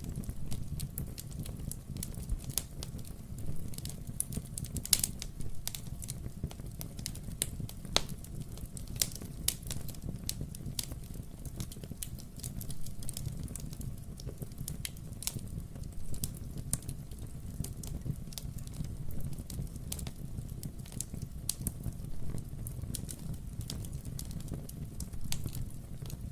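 Wood fire crackling in a fireplace: a steady low rumble of burning logs with scattered sharp pops and snaps, irregular and never evenly spaced.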